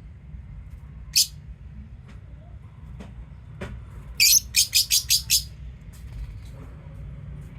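Lovebirds chirping: one shrill chirp about a second in, then a quick run of about six chirps midway, over a steady low hum.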